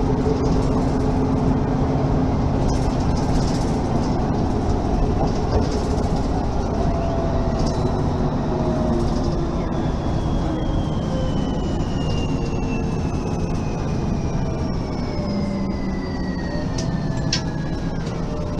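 Mercedes-Benz Facelift city bus running, with a steady drone of engine and drivetrain and a high whine that glides steadily down in pitch over the second half.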